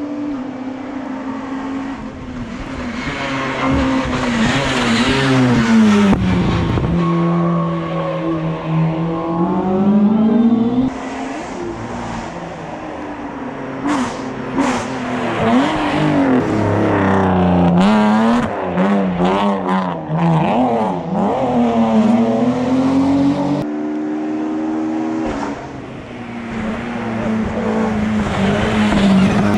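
Racing car engine at hill-climb speed, its revs climbing through the gears and dropping sharply at each shift, several times over. Through the middle comes a run of quick rev changes, from throttle blips on downshifts and hard accelerating out of bends.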